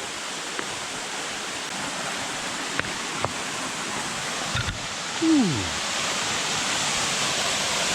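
Waterfall rushing steadily, growing a little louder toward the end.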